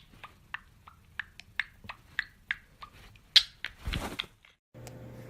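Pet parrot making a quick series of short, sharp clicks and chirps, about two or three a second, with a louder one about three and a half seconds in.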